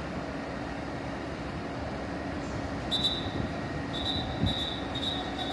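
Fire-rescue vehicle's engine running steadily, with a high-pitched warning beep that starts about three seconds in and repeats roughly twice a second.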